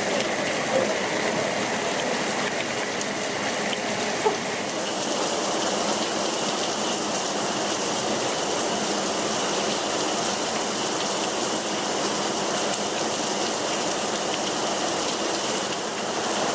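Torrential rain pouring down steadily, with a brief knock about four seconds in.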